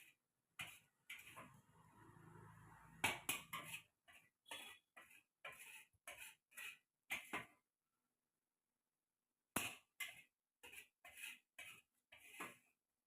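Faint series of short, sharp scrapes and clicks, coming a few a second in runs with gaps between, with a low hum under them in the first few seconds.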